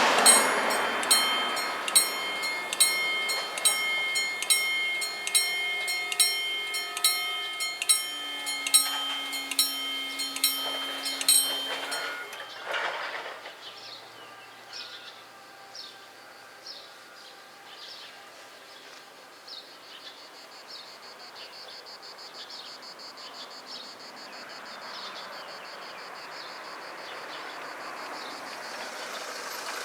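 Railway level-crossing bells ringing in a steady beat, a little under one strike a second, then stopping suddenly about twelve seconds in. After that, faint high-pitched insect chirring.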